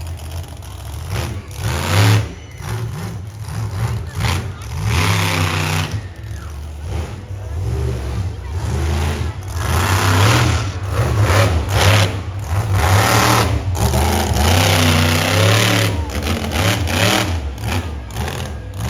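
Monster truck's V8 engine revving hard over and over, its pitch rising and falling in repeated surges.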